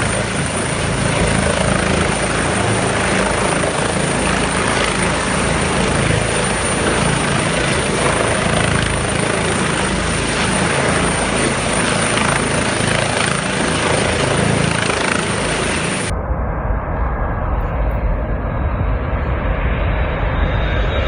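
Helicopter rotor and engine noise, loud and steady. About sixteen seconds in it cuts abruptly to a different, duller recording dominated by a low rumble.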